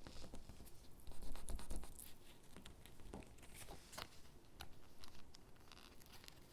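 Stickers being peeled off their backing sheet and pressed onto paper cutouts: irregular soft peeling, rustling and scratchy ticks, busiest about one to two seconds in.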